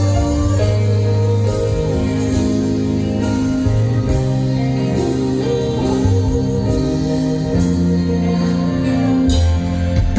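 Live band playing a pop-rock ballad, sustained chords and guitar and keyboard lines in an instrumental passage between sung verses.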